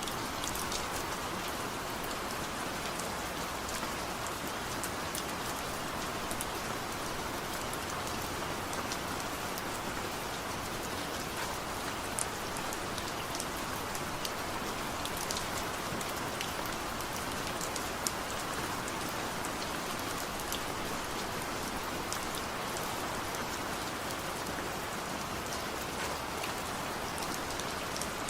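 Steady rain falling, a constant hiss with many scattered sharp drop ticks, and no thunder.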